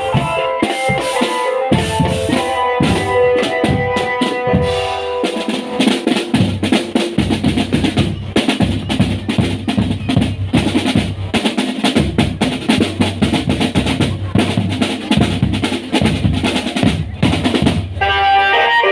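Marching drum band's percussion section playing a dense, fast drum passage. Melodic instruments play over the drums for the first few seconds, then drop out. About a second before the end the drums stop and the melody comes back.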